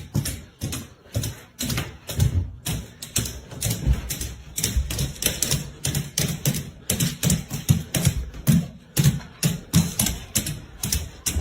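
Quick, uneven tapping and clicking, several taps a second, each with a dull thump beneath it.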